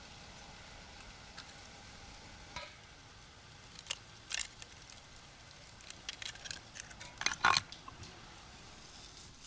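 Kitchen utensils clinking and scraping against cookware, in scattered light knocks over a faint steady background, with a busier, louder run of clicks about six to seven and a half seconds in.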